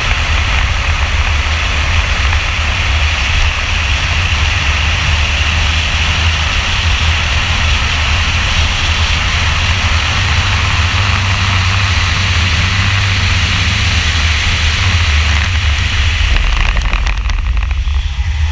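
In-cabin sound of a 2002 Camaro Z28's LS1 V8 pulling at full throttle down a straight at over 100 mph, heavy with wind and road noise. Near the end the throttle comes off and the sound turns rough as the car brakes hard.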